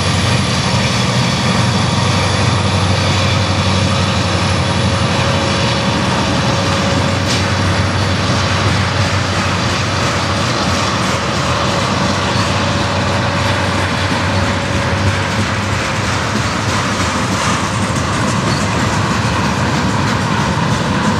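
Union Pacific EMD SD40-2 diesel locomotives, turbocharged two-stroke V16s, running steadily under load as the freight train departs, with the freight cars rolling past on the rails.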